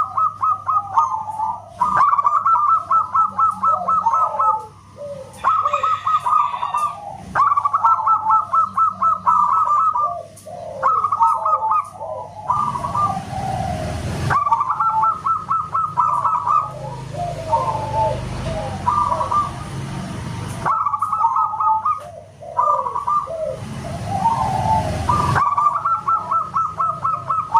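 Zebra doves (perkutut) cooing: phrase after phrase of quick, evenly repeated staccato notes, with lower, softer notes between the phrases.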